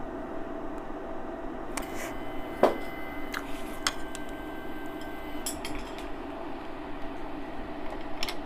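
Scattered clicks and knocks from handling a handheld infrared thermometer and a mirror, with one sharper knock about two and a half seconds in. Underneath runs a steady hum with faint tones.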